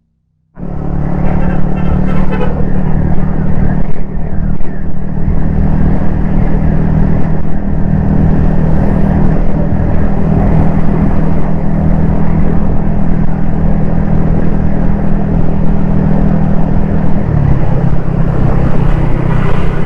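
Yamaha XSR155's 155 cc single-cylinder engine running at a steady cruise under way, heard from a helmet-mounted camera. It starts abruptly about half a second in, and the engine note drops slightly a few seconds before the end.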